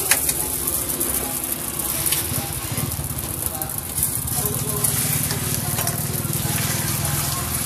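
Thin stretched roti dough sizzling steadily on a hot oiled flat griddle, with a few light clicks along the way.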